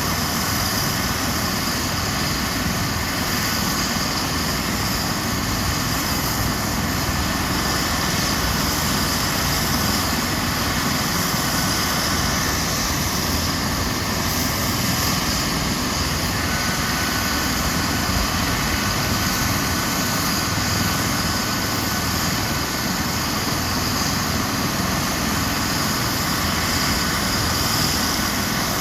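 Eurocopter EC135 helicopter's twin turbine engines and main rotor running steadily on the ground, with a thin steady whine over the rotor and turbine noise.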